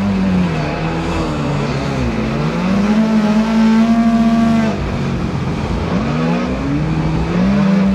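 Boat's motor running, its pitch repeatedly falling and rising again as the throttle is let off and opened.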